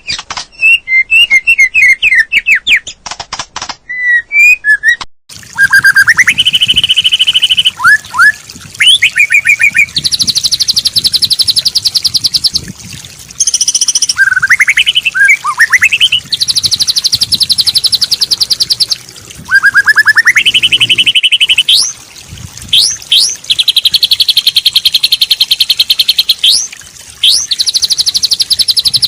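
Recorded songbird song played as tutor material: rapid chirps and short trills, then, after a brief break about five seconds in, long buzzing trills alternating with quick rising whistled sweeps.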